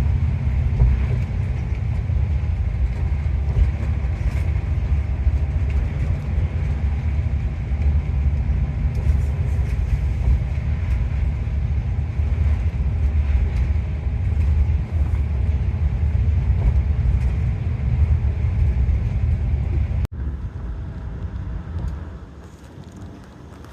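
Steady low rumble of a moving bus heard from inside, engine and road noise. It cuts off abruptly about twenty seconds in, and a quieter, lighter sound follows.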